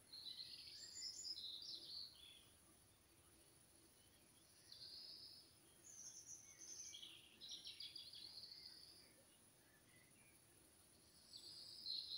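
Faint songbird song: three short phrases of fast, stuttering high notes, a few seconds apart.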